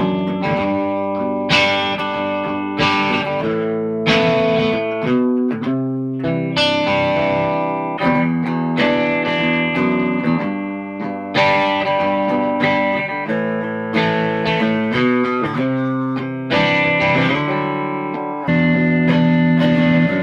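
1989 Gibson Custom SG electric guitar playing chords, each struck and left to ring out, a new one about every one to two seconds, through a lightly overdriven amp.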